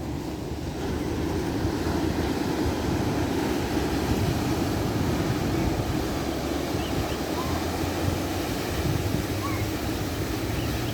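Ocean surf: waves washing in a steady, low, continuous noise.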